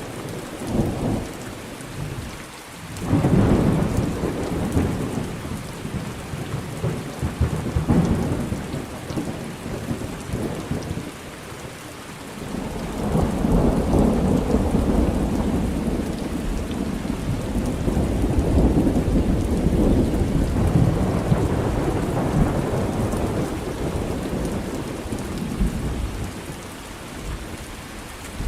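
Thunderstorm: steady heavy rain with rolling thunder. A sharp thunderclap breaks about three seconds in, and a long low rumble of thunder builds and rolls on through the middle.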